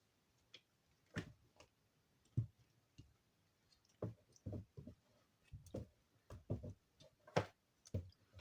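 Hands kneading and squeezing damp soap shavings into a lump, making faint, irregular soft squishes and sticky clicks.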